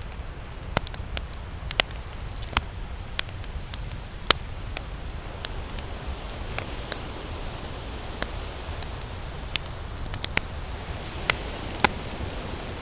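Campfire crackling, with irregular sharp pops and snaps of burning wood, a few louder ones near the end. A steady low rumble runs underneath.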